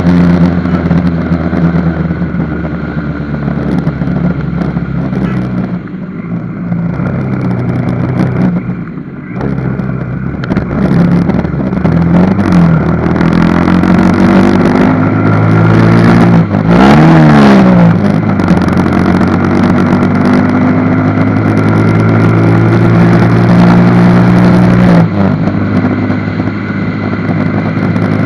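Road vehicle engines running continuously, their pitch rising and falling several times as they speed up and slow down, with the busiest swell of pitch changes about 16 to 18 seconds in.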